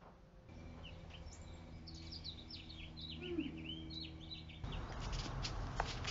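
Small birds chirping, a string of quick rising and falling chirps, over a low steady hum. A little past four seconds in, the background grows louder and soft taps begin: slippers stepping on a wooden floor.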